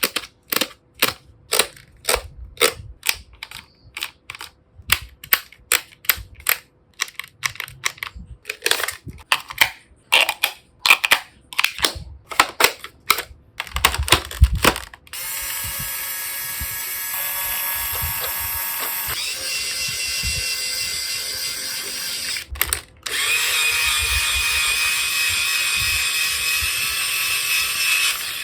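Toy battery-powered rotary drill: first a long run of plastic clicks and clacks as it is handled, then its small electric motor runs with a steady whine. About 23 seconds in it stops for a moment, then runs again louder.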